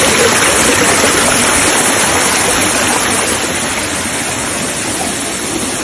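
Rushing water of a waterfall: a steady, loud rush of falling water that eases slightly toward the end.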